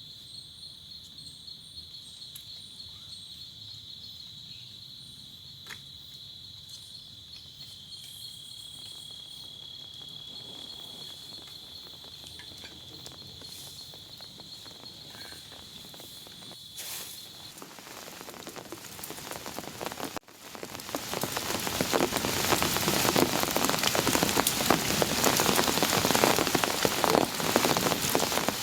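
An insect trilling steadily at a high pitch over quiet night ambience, stopping about two-thirds of the way through. Rain then builds and, after a brief drop-out, comes in as heavy, loud rain pouring down for the rest of the stretch.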